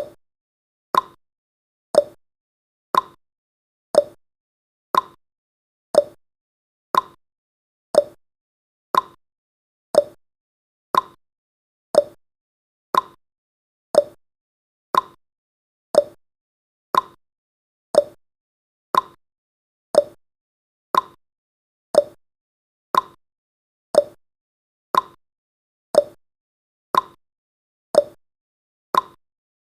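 Countdown timer's ticking sound effect: one short, sharp tick every second, evenly spaced, with silence between.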